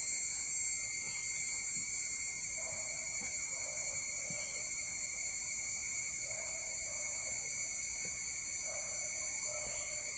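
Steady chorus of rainforest insects, several shrill high tones sounding at once without a break.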